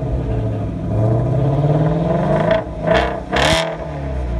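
Ford Shelby GT350's 5.2-litre flat-plane-crank V8 running through its exhaust, rising gently in pitch about a second in, then blipped twice in quick succession about three seconds in.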